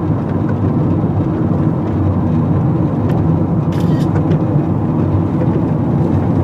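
A car driving along: steady engine and road rumble heard from inside the vehicle, with a brief click about four seconds in.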